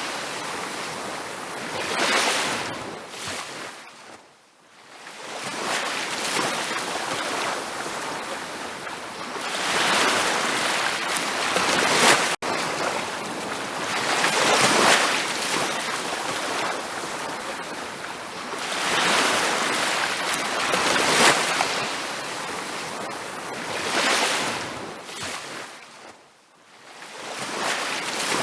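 Ocean surf breaking on a beach: repeated rushing surges of waves that swell and ebb every few seconds, with two short lulls between sets. A split-second dropout a little under halfway through.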